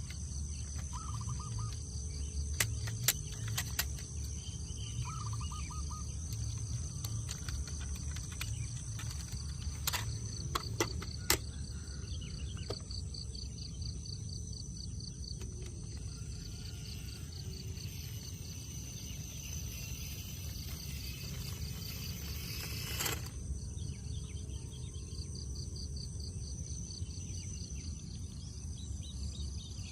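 Outdoor ambience of insects chirping steadily in high, fast pulses over a low rumble, with a few sharp clicks about three seconds in and again around ten to eleven seconds, and a brief swish near twenty-three seconds.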